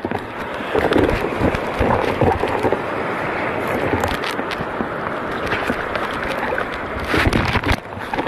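Wind on the microphone with irregular knocks and crunches, louder for a moment about a second in and again near the end.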